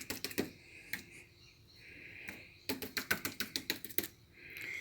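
Quick, light taps of a paintbrush dabbing paint onto wet plaster: a few near the start, then a rapid run of about a dozen taps in the second half.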